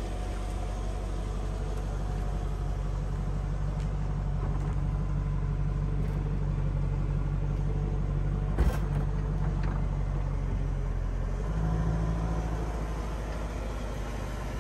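Mercedes-Benz SLK 55 AMG's M113 V8 idling steadily with a low rumble. There is a single sharp click a little past halfway, and the engine note steps up slightly about three-quarters through.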